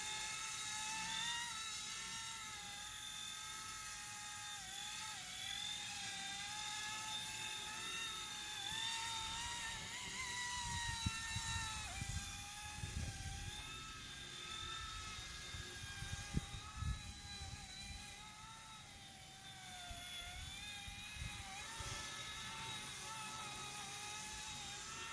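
Electric motors and propellers of a small four-propeller Vevor RC helicopter in flight: a steady high whine whose pitch wavers up and down as the flying is steered. A few low thumps come midway.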